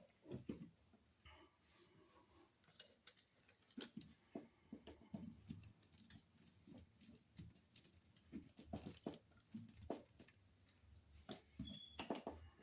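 Faint, scattered small clicks and taps of hand work on a wall receptacle, as wires are bent and fitted to its screw terminals.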